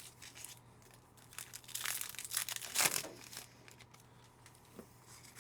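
Foil trading-card pack wrappers crinkling and cards being handled, in scattered short rustles that are busiest around the middle.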